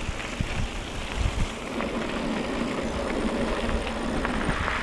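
Wind rumbling on the microphone over a steady rush of bicycle tyres rolling on a dirt country road, with a few faint clicks.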